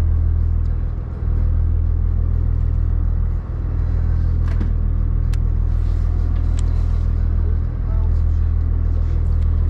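A boat's inboard engine running steadily, heard on deck as a loud, even low drone. A few light clicks come through in the middle.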